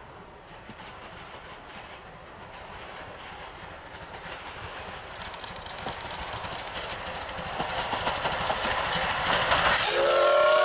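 Steam locomotive C12 66 approaching and growing steadily louder, with a rapid even beat from about halfway. Just before the end comes a short burst of hiss, then its steam whistle sounds a chord of several pitches that slides up slightly as it starts.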